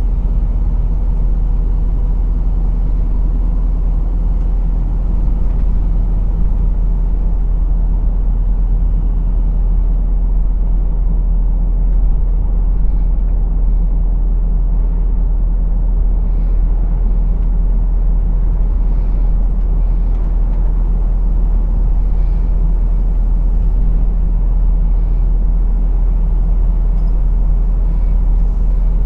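Heavy goods lorry's diesel engine and road noise heard from the cab: a steady low rumble while driving.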